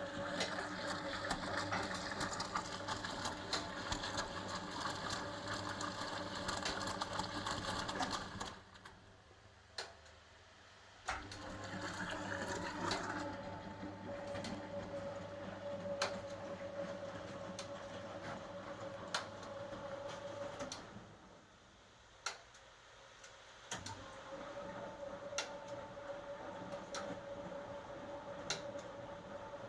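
1980 HUWA Automatic Standard 4 washing machine's motor turning the drum in runs of about ten seconds, with two pauses of a few seconds between them, the usual on-off rhythm of a wash action. Sharp ticks sound throughout, including in the pauses.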